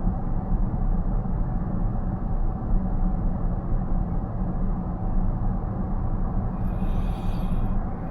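Steady low road and tyre rumble inside a car cruising at about 70 km/h. A brief higher-pitched hiss lasting about a second comes near the end.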